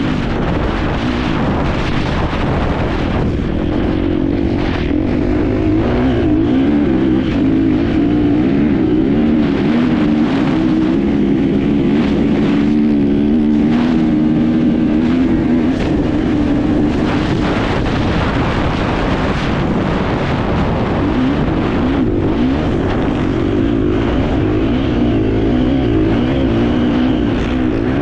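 Enduro motorcycle engine heard on board while racing, its revs rising and falling constantly as the rider works the throttle, with a steady rushing noise over it.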